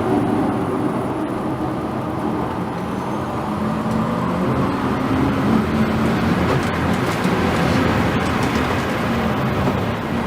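Electric performance car running at speed on track: a steady mix of motor hum and road and wind noise, with no engine note.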